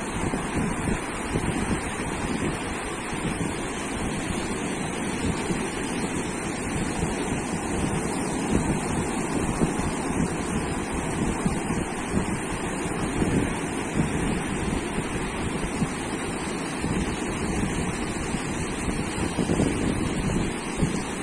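Ocean surf washing onto a beach: a steady rush of waves without any distinct single crash, with wind rumbling on the microphone.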